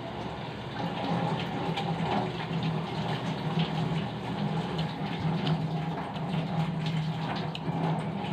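Washing machine filling with water: a steady rush of running water with a low hum, growing louder about a second in.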